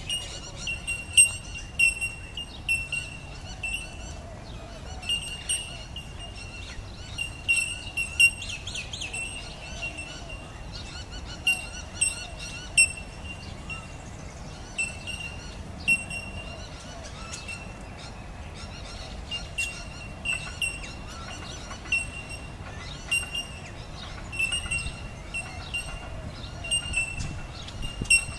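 Small birds chirping, short sharp high notes repeated one or two times a second, over a steady low outdoor background.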